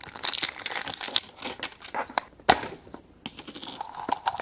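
A surprise egg's wrapper crinkling and tearing as it is unwrapped by hand, with many small clicks and one sharp click about two and a half seconds in.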